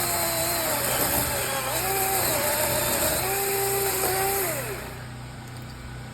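Chainsaw running at high revs, its pitch dipping and rising as it loads and frees in the cut. About four and a half seconds in the pitch falls away and the saw goes quieter.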